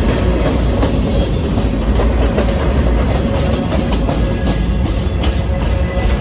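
A train passing close by: a steady, loud rumble with repeated clicking of the wheels over the rail joints.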